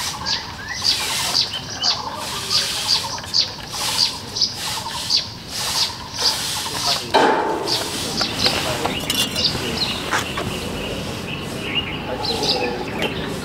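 Small birds chirping over and over, short high chirps about two a second, with a sudden louder rush of noise about seven seconds in.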